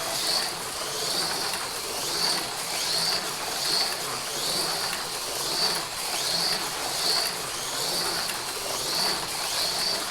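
AFX Mega G+ HO slot cars running flat out on the track, their small electric motors whining and the cars rattling. The whine swells about once a second as the cars lap past.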